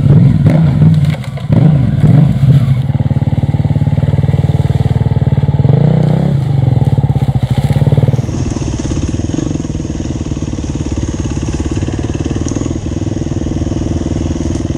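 Off-road motorcycle engine heard on board while riding a trail, revs rising and falling unevenly with knocks and clatter from rough ground. About eight seconds in it drops to a steadier, quieter running note.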